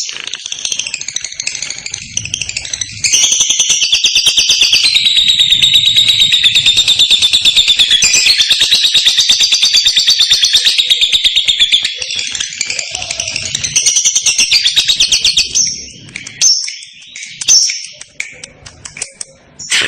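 Lovebird singing its long 'ngekek': a loud, rapid chattering trill that starts about three seconds in and runs unbroken for about twelve seconds, then breaks into scattered short chirps.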